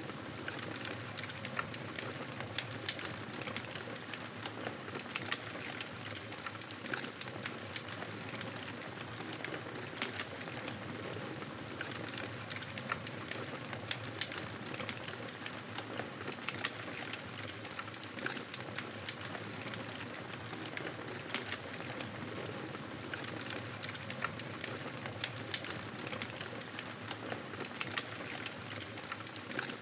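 Wood fire crackling: a steady hiss of burning, with many small sharp pops and snaps at irregular moments throughout.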